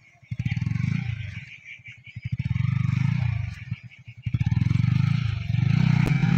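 Yamaha R15 V4's single-cylinder engine revved in three bursts, dying down between them, as the bike struggles for grip on slippery mud. A sharp click comes near the end.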